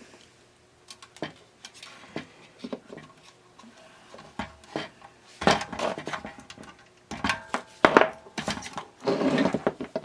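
Small hand tools and metal parts clicking and clattering on a workbench in irregular bursts, louder in the second half.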